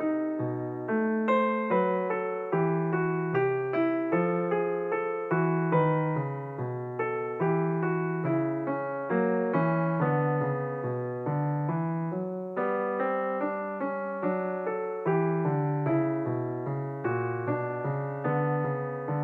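Background piano music: a gentle run of single notes over a bass line, played at an even tempo.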